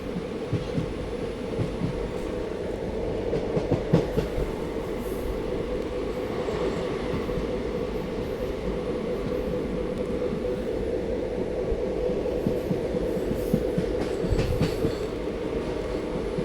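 Passenger train running along the track, heard from on board: a steady rumble and hum with irregular wheel clicks and knocks on the rails. Louder knocks bunch together about four seconds in and again near the end.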